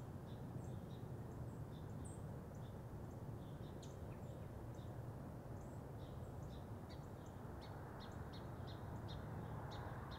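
Small birds chirping faintly: many short, high calls, coming more often in the second half, over a steady low background noise.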